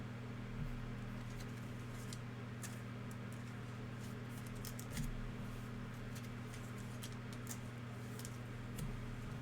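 Trading cards being handled and flipped, with many faint clicks and flicks of card stock and three soft thumps, over a steady low hum.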